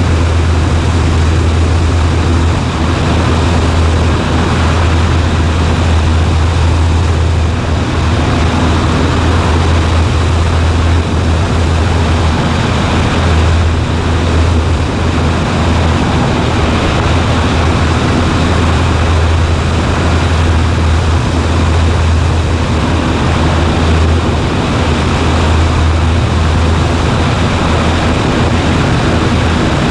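Cessna 140A's piston engine and propeller droning steadily from inside the cabin, a constant low hum under a broad even roar.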